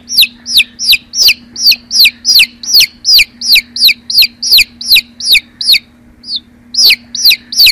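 Baby chicks peeping: a fast run of short, high peeps, each falling in pitch, about three a second, with a brief break near the end.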